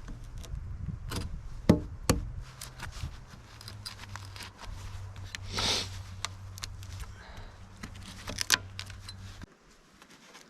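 Wooden sticks knocking and clicking against each other as the lean-to's poles are handled and set in place, with a short brushing rustle near the middle. A low steady hum underneath stops about a second before the end.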